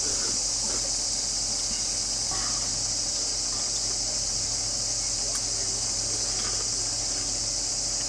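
Steady, high-pitched chorus of summer insects, an unbroken buzzing drone.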